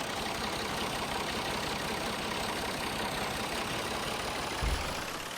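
An engine running steadily, like a tractor idling, with a short low thump near the end.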